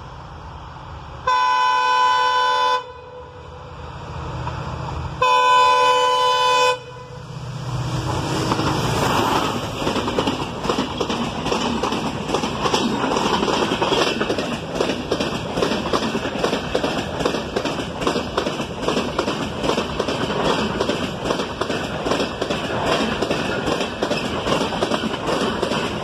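Express train's locomotive horn sounding two blasts of about a second and a half each, a few seconds apart, as it approaches. Then the train passing close by at speed: a steady rumble with a rapid, even clickety-clack of wheels over the rail joints.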